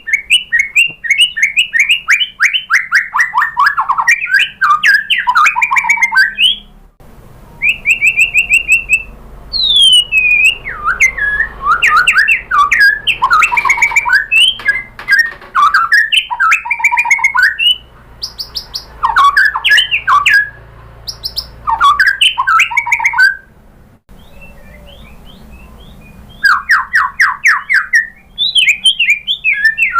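White-rumped shama singing loudly: bursts of rapid sweeping notes in quick runs, with a short steady whistle among them and a few brief pauses.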